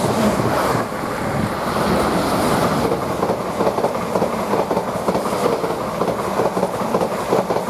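Greater Anglia Class 745 electric trains passing through the station at speed, two of them passing each other. A steady loud rush, with the wheels clattering rapidly over the rail joints from about three seconds in.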